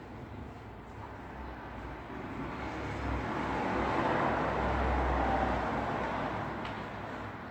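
A road vehicle passing by, its engine and tyre noise swelling to a peak about halfway through and fading again, over a steady hum of road traffic.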